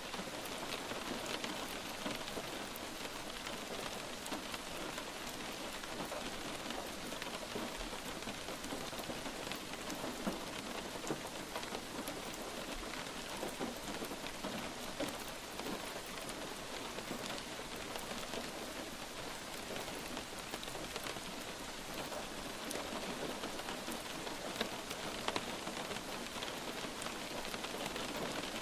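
Steady light rain falling on a surface, an even hiss full of small individual drop ticks.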